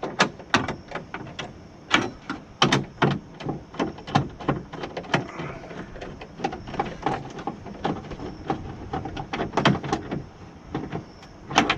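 Many sharp clicks and knocks at an irregular pace, the sound of hand tools and metal parts being worked inside a car door on the power-window regulator and track.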